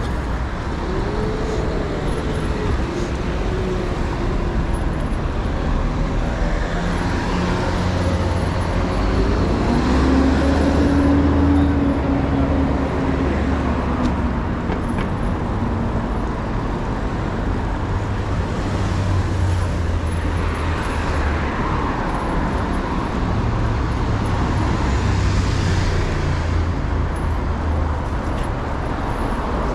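City street traffic: motor vehicles running and passing close by over a continuous low rumble, getting louder for a few seconds twice, near the middle and again later.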